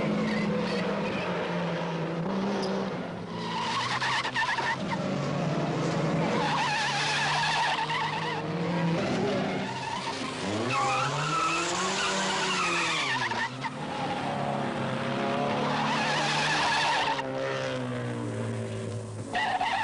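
Rally cars driven flat out through tight corners: engines revving hard, the engine note climbing and dropping again about halfway through, with tyres squealing as the cars slide.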